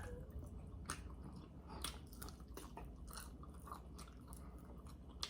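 Quiet chewing and biting at the table, with a few soft scattered clicks.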